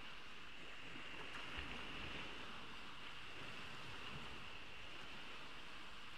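Gentle ocean waves washing onto a beach, heard as a steady, quiet hiss of surf, with a soft low thump about one and a half seconds in.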